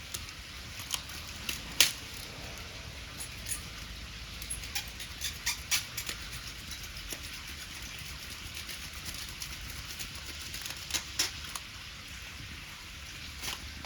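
Wood fire crackling, with irregular sharp pops, the loudest about two seconds in, over a steady low noise.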